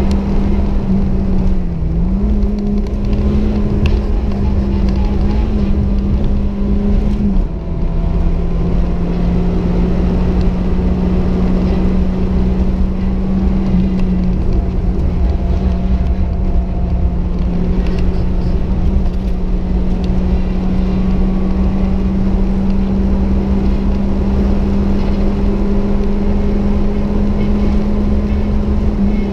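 Turbocharged Fiat Cinquecento engine running hard at high revs, heard from inside the cabin, holding a nearly steady pitch over a loud low rumble. The pitch dips briefly twice in the first several seconds, then holds steady.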